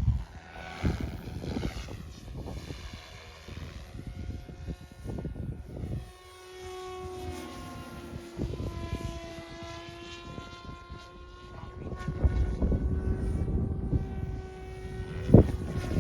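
OMPHobby M4 Max RC helicopter in flight, its rotor and electric motor giving a steady whine with several tones that shift a little in pitch. Gusts of wind buffet the microphone, strongest in the second half, and a sharp thump comes near the end.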